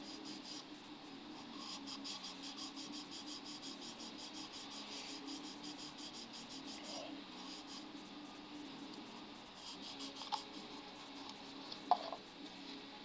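400-grit sandpaper being rubbed in quick, even back-and-forth strokes over the primed body of a scale model pickup, dry sanding the primer smooth. The strokes pause briefly about seven seconds in, then resume.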